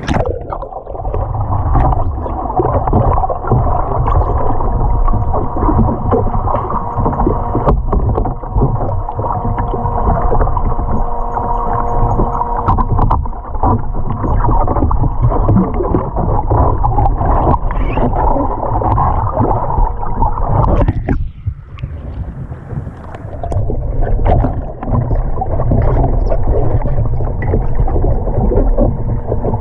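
Muffled water sloshing and splashing around a kayak, with a low rumble and a steady hum underneath. The level drops briefly about two-thirds of the way through.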